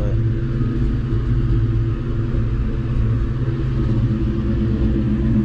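1996 Ford Mustang GT's freshly swapped-in 4.6-litre V8 idling steadily, running smoothly.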